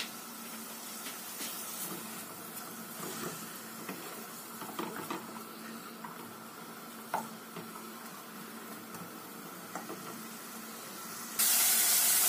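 Chopped garlic and onion frying gently in oil in a nonstick pan, a soft sizzle with a few light scrapes and taps of a silicone spatula stirring them. Near the end the sizzling suddenly becomes much louder.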